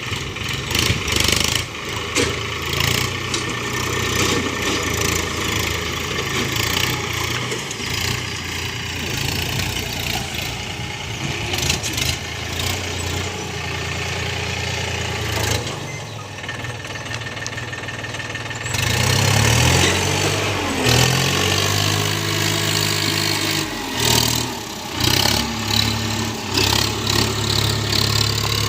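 Swaraj 963 FE tractor's diesel engine running steadily. In the second half its engine speed rises and falls several times and it gets louder.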